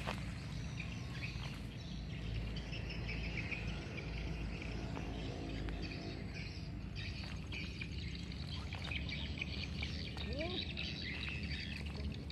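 Tropical swamp-forest chorus: many birds chirping and calling at once over a low rumble, with one short rising call about ten seconds in.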